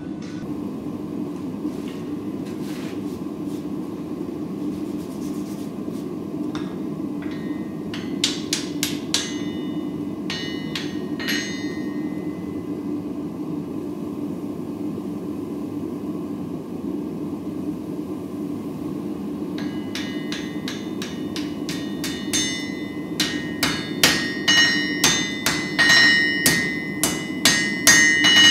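Hammer blows on steel at the anvil, each strike ringing with a metallic tone over a steady low hum. A few strikes come about a third of the way in, then a louder, faster run of blows builds over the last third.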